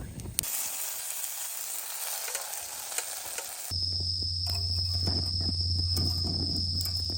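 Food sizzling in a frying pan, a dense hiss. A little over halfway through it cuts abruptly to a different sound: a steady low hum and a high whine with scattered soft pops.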